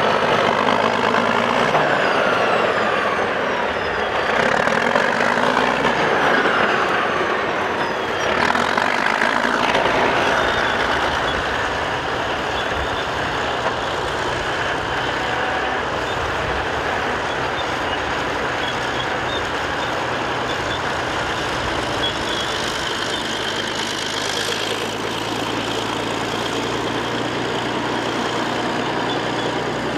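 Caterpillar crawler bulldozer running under steady heavy noise, with sliding high-pitched tones over the first ten seconds or so, then settling to a steadier running sound.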